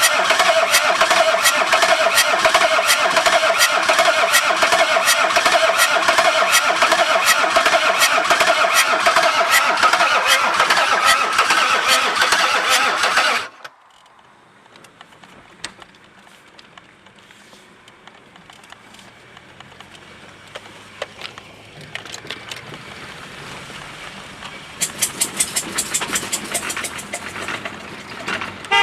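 BMW 525tds diesel engine with a loud, regular clatter, just after its startup following an engine replacement. The sound cuts off suddenly about halfway through. A much quieter engine sound with a low hum follows, and regular ticking builds again near the end.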